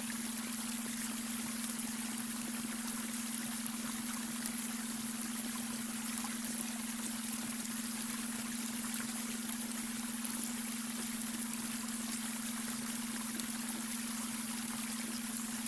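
Babbling brook: water running and trickling in a steady, unbroken rush. Under it sits a constant, unchanging tone, the beta brainwave tone laid over the water.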